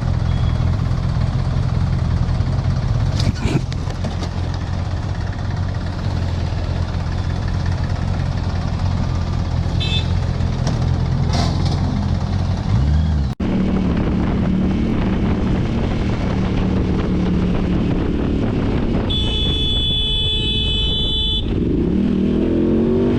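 Vehicle engine and road noise running steadily, broken off abruptly about 13 seconds in. Another engine then runs on, and a vehicle horn sounds for about two seconds near the end.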